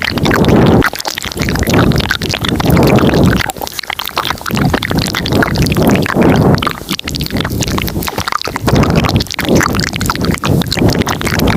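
Layered ASMR mouth sounds very close to the microphone: rapid small clicks and smacks over breathy swells that rise and fall every second or two.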